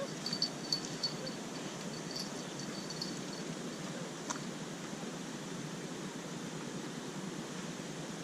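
Steady outdoor background hiss, with a run of short, high chirps through the first three seconds or so and a single sharp click about four seconds in.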